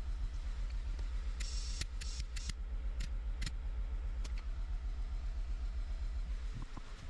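A car engine idling with a low, steady throb, and a brief jangle of keys and metal clicks a couple of seconds in.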